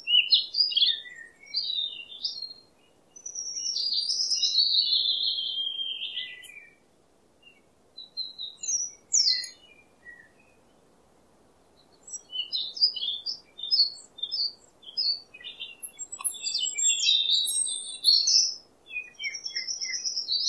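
Birds chirping and twittering in quick high-pitched phrases. A longer phrase falls in pitch a few seconds in, there is a lull with only scattered chirps around the middle, and then a busy run of rapid chirps follows.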